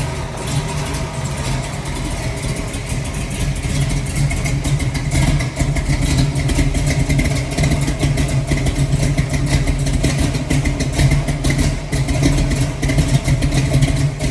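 1968 Chevrolet Camaro's 454 big-block V8, fitted with performance headers, running steadily with a fast, even pulse of exhaust beats.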